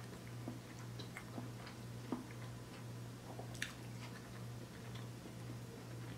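A person chewing food close to the microphone, with small mouth clicks and one sharper click about three and a half seconds in, over a steady low hum.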